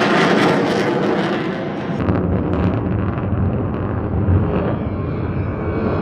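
RSAF F-15 fighter jet's engines making a pass. The hiss drops away about two seconds in, leaving a heavy low rumble as the jet moves away.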